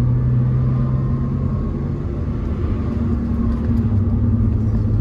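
Porsche 986 Boxster's flat-six engine running while driving, heard from inside the cabin over steady road noise. Its note fades about two seconds in and comes back at a lower pitch near the end.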